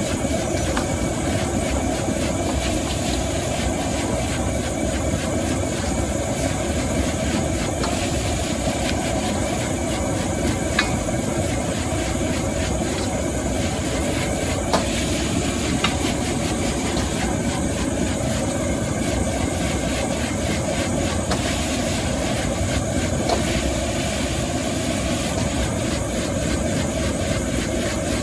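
High-pressure gas wok burner running with a steady roar, with a few sharp metallic clinks of a spatula against the wok.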